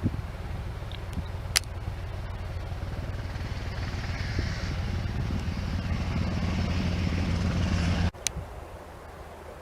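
Sikorsky S-70i Black Hawk helicopter's rotor beating fast and steadily, getting louder, with a hiss of engine noise over it. About eight seconds in it cuts off suddenly, leaving a quieter rumble. Two sharp clicks are heard, the louder one near the start.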